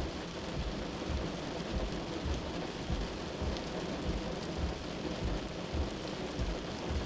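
Steady rain falling, with irregular low rumbles underneath.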